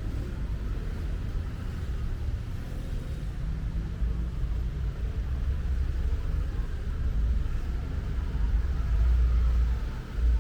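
City street ambience: an uneven low rumble of road traffic.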